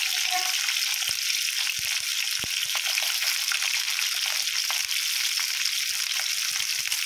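Cauliflower florets frying in hot oil in a kadhai: a steady sizzle with scattered small pops and crackles.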